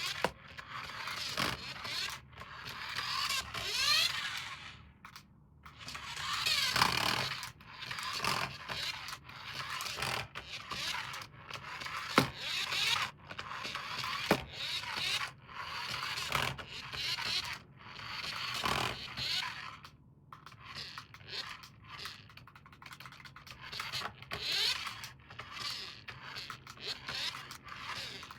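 Irregular scraping and rustling in swells of a second or two, with scattered sharp clicks: toy packaging and toys being handled and unboxed.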